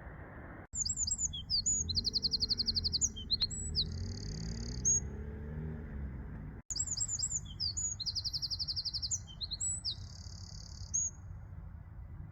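A songbird singing at night. It gives the same song phrase twice, about six seconds apart, each a run of high chirps followed by a fast buzzy trill and a long held note, over a low steady background rumble.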